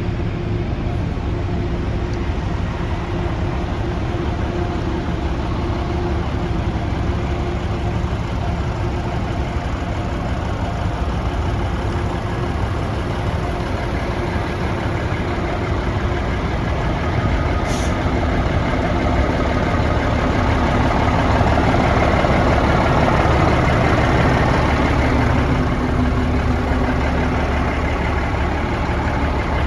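1991 Ford L8000 truck's diesel engine idling steadily, getting somewhat louder for a stretch past the middle.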